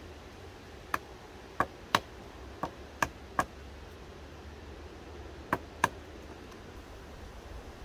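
A series of about eight sharp knocks, several in quick pairs, with a brief ring after the louder ones, over a steady low background.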